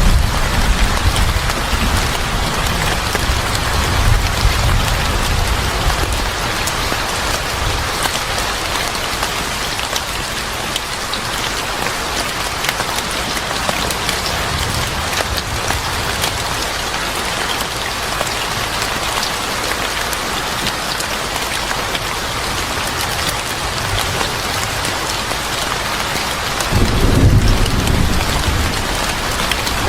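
Steady rain falling on a surface, with low thunder rumbling at the start and a louder roll of thunder near the end.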